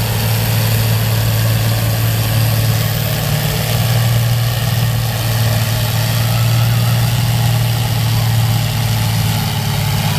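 Engine of a roughly 40-year-old pulling tractor running hard under load as it drags the sled down the track. It is loud and steady, holding an even pitch throughout.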